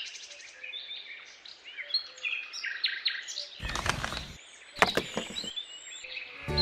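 Small birds chirping and twittering in quick, high notes, with two louder noisy bursts a little past the middle.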